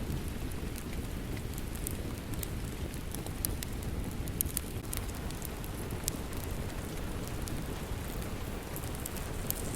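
Steady rain with a low rumble, mixed with a wood fire crackling: scattered sharp pops and snaps, a few of them a little louder.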